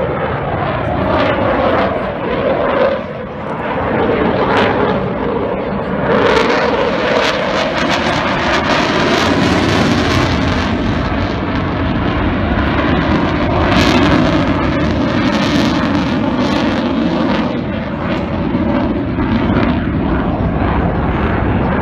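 Eurofighter Typhoon jet fighter flying a display, its twin EJ200 turbofans giving a loud, continuous jet roar with a rough crackle throughout.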